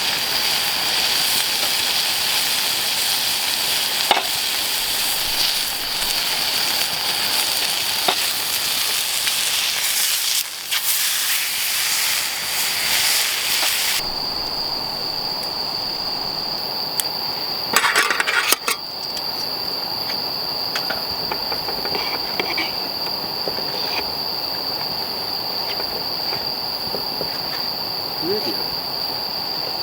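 Crickets chirring in one steady high note throughout. For about the first fourteen seconds a loud hiss lies over them, then it stops abruptly, leaving the insects with a brief clatter a few seconds later.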